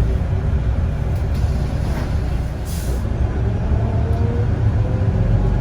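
Steady low rumble of a Volvo B9TL bus heard from on board. A short hiss of air comes about two and a half seconds in.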